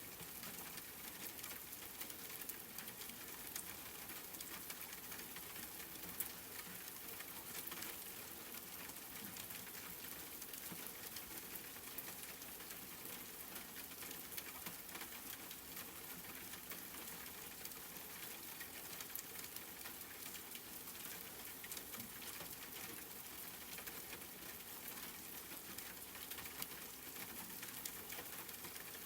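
Steady rain falling, a dense patter of drops with the odd sharper drip standing out.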